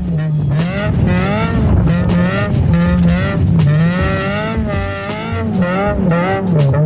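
Honda K24 four-cylinder engine in an all-wheel-drive CR-V revving up and down over and over, its pitch climbing and dropping about once a second.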